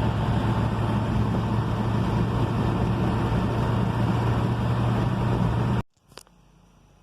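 Hemi V8 in a 1972 Dodge pickup running steadily at highway cruise, about 1,500 RPM, with a steady low engine drone and road noise. It cuts off abruptly near the end, followed by a single click in quiet.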